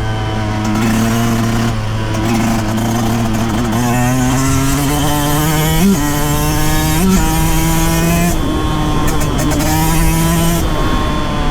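2023 Yamaha YZ125's 125cc two-stroke single-cylinder engine running at low revs, its pitch drifting up and down with the throttle, with two short revs about six and seven seconds in.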